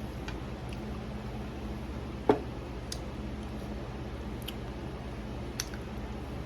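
Quiet eating sounds: a few small mouth clicks, with one louder, sharper smack about two seconds in, over a steady low hum.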